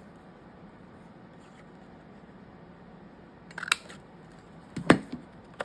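Paper and craft pieces being handled on a desk: mostly quiet, then two short crisp clicks, the second, about a second later near the end, the louder.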